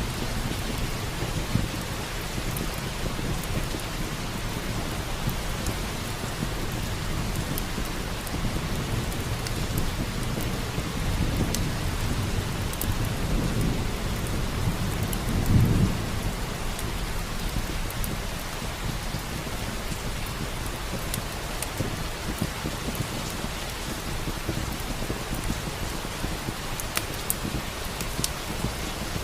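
Steady rain with a low thunder rumble that swells through the middle and peaks a little past halfway. Scattered sharp crackles of a log fire sound over the rain.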